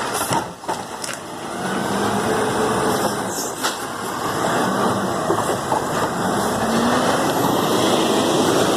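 Garbage truck engine running steadily, getting louder over the first couple of seconds, with a few sharp clicks early on.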